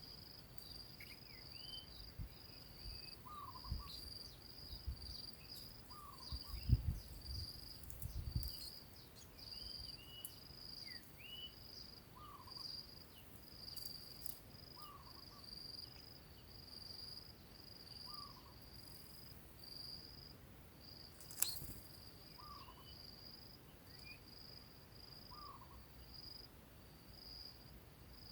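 Insect, likely a cricket, chirping in a steady run of high-pitched chirps, with a faint short call repeating every few seconds underneath. A few low bumps come in the first third, and a single sharp click about two-thirds of the way in.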